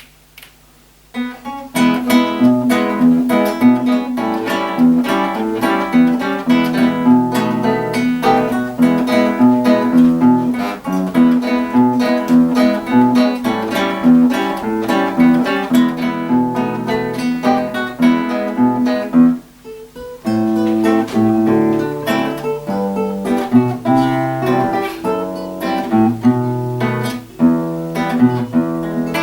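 Two acoustic guitars playing a duet, plucked notes with some strumming; the playing begins about a second and a half in and pauses briefly about two-thirds of the way through before going on.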